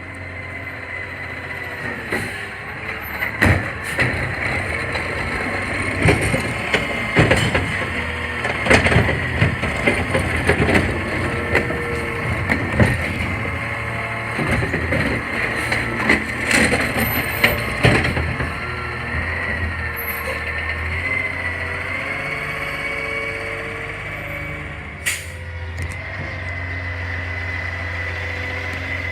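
CNG garbage truck running, with a steady low engine drone and a steady high whine, overlaid by a long run of clanks and knocks that ease off about two-thirds of the way through.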